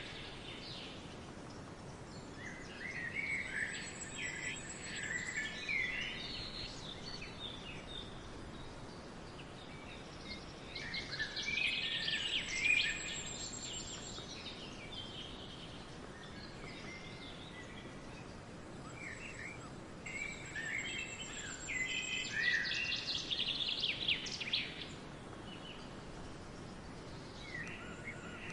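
Songbirds singing in a forest in three spells of chirpy phrases about eight to nine seconds apart, each with a thin, very high whistled note, over a steady background hiss.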